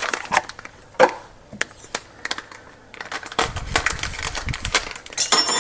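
A box of chocolate pudding pie filling being handled and opened: a run of clicks and taps with a sharp knock about a second in, then denser rustling and clicking over the last two seconds.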